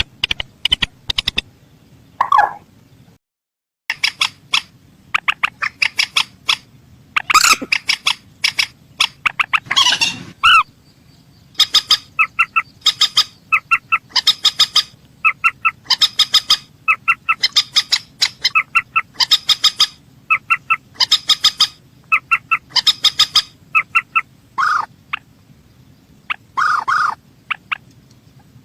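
Mandar sawah (a rail) calling: bursts of short, rapid, sharp notes repeated in quick series, burst after burst, with a brief total silence a few seconds in.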